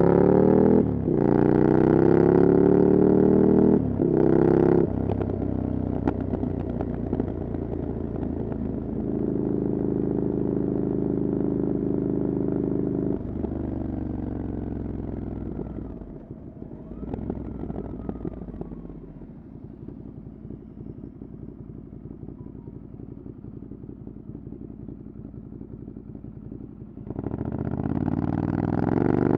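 Ducati Desert Sled's air-cooled L-twin through a LeoVince exhaust with the dB killer removed. It accelerates hard with two quick upshifts, holds a steady cruise, then rolls off and settles to a low idle. Near the end it revs up and pulls away again.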